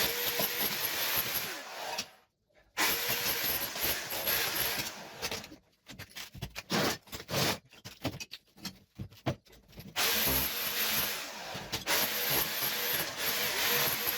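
Power tool running while old kitchen wall tiles are stripped off. It stops briefly about two seconds in, starts and stops in quick short bursts through the middle, then runs steadily again near the end.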